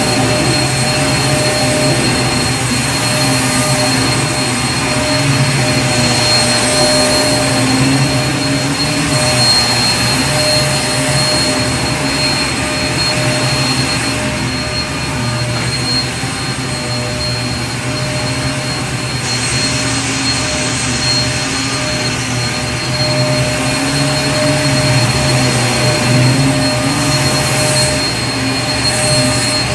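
Vacuum cleaner running steadily, a constant whine and rush of air whose low hum wavers slightly.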